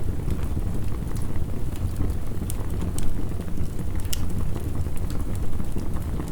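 Crackling fire with heavy rain: a steady low rushing of rain, with scattered sharp crackles and pops from burning wood.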